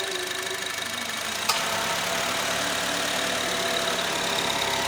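Honda Mobilio's 1.5-litre four-cylinder engine idling steadily after a tune-up with a freshly cleaned throttle body. A click comes about a second and a half in, after which the engine runs a little louder.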